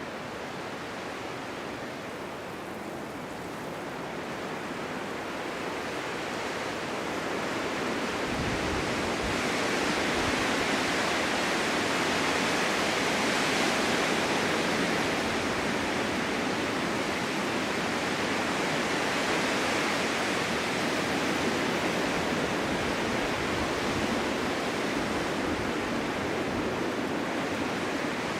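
Strong winter wind blowing steadily in a snowstorm, a rushing noise that builds into a gust over the first ten seconds or so, then eases a little.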